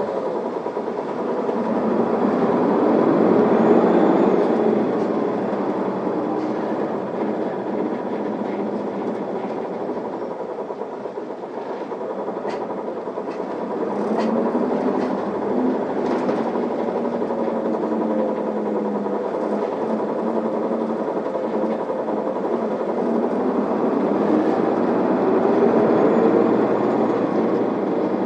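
Isuzu Erga diesel city bus heard from inside the cabin pulling away from a stop and accelerating, the engine note rising and falling as it revs up through the gears, over steady road noise with a few light clicks and rattles.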